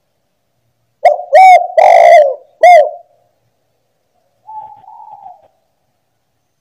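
Spotted dove (tekukur) cooing: one loud phrase of four arched notes, the third drawn out longer, starting about a second in. A fainter, shorter coo follows near the end.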